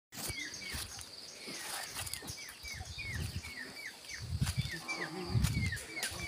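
A bird calling in short falling chirps, about two a second, over a steady high insect drone. Two low sounds come about four and a half and five and a half seconds in.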